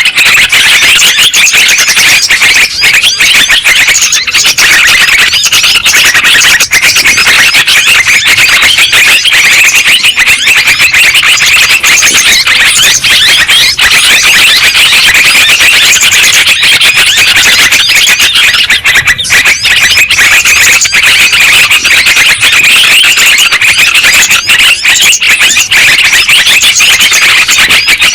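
Dense, unbroken chorus of many yellow-vented bulbuls (trucukan) chattering and warbling over one another, played loud as a bird-lure recording.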